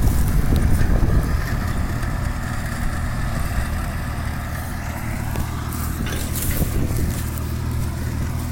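Kubota farm tractor's diesel engine running steadily under load while it pulls a disc plough through hard, dry paddy soil.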